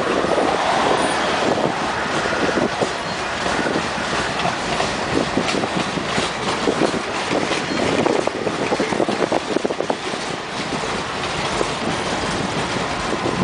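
Freight cars rolling past at close range: steel wheels clattering over the rails, a steady rolling noise full of clicks and clanks.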